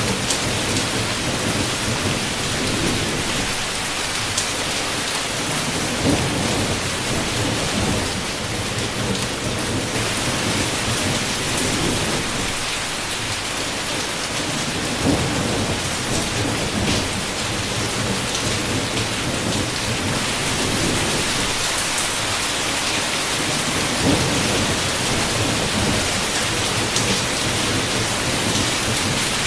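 Heavy rain beating steadily, with low thunder rumbling in and out several times and a few sharp drop clicks.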